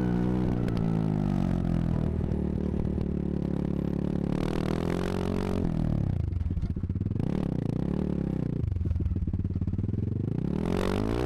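Small dirt bike engine running while being ridden, the throttle backing off and picking up again twice in the middle, then revving up sharply near the end.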